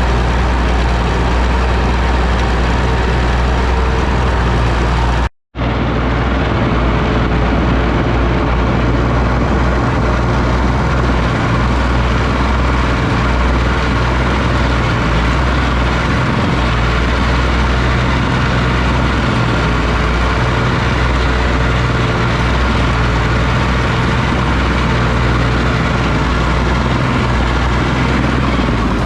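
Oliver OC-6 crawler tractor engine running steadily, with a deep, even low drone. About five seconds in, the sound cuts out completely for a split second, then resumes unchanged.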